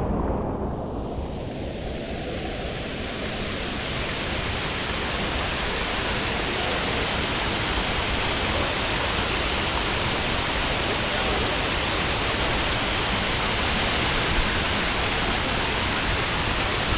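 Waterfall: a steady, dense rush of falling water. It grows brighter over the first few seconds and then holds even.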